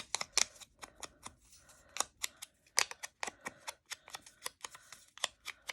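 Hands working with paper and craft supplies on a desk: a run of irregular small clicks, taps and paper rustles.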